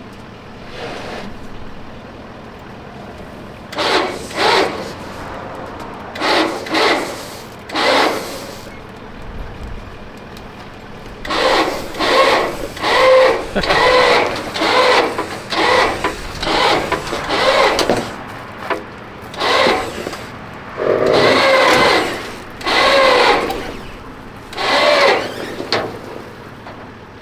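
A string of short, pitched creaks and squeals, irregular and coming closer together from about halfway through, as the truck is dragged by winch.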